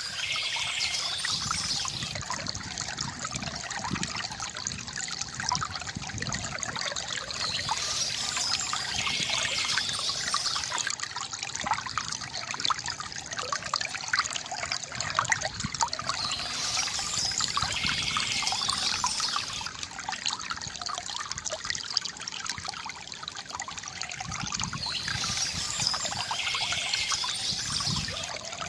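Water from a bamboo fountain trickling and pouring steadily into a basin. A brief high-pitched sound recurs about every eight or nine seconds, four times.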